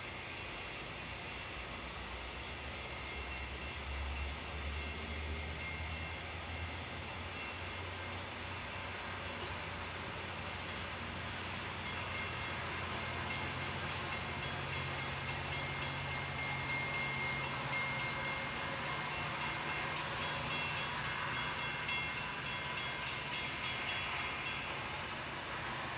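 Metra bilevel commuter train cars rolling past over a road grade crossing, a continuous rail rumble with a steady low hum. An evenly repeating ringing runs through much of it, typical of the crossing's warning bell, heard from inside a car.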